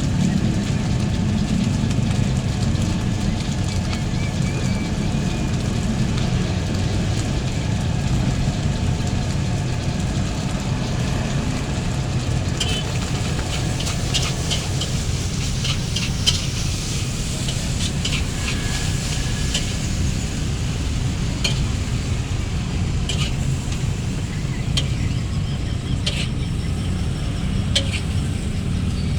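Fried rice sizzling in a wok at a street stall, with quick metal clinks of a spatula against the wok from about halfway through, over a steady low rumble of traffic.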